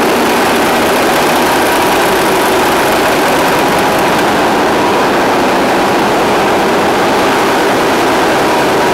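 Twin Caterpillar 3612 V12 marine diesels running, heard as a loud, steady machinery din in the engine spaces, with a faint steady whine running through it.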